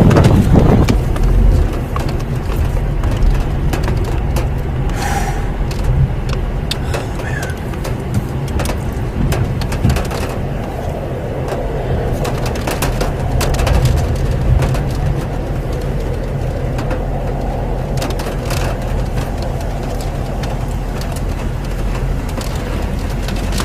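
Steady low rumble of wind noise outdoors during a tornado, with frequent crackles and pops of gusts hitting the microphone.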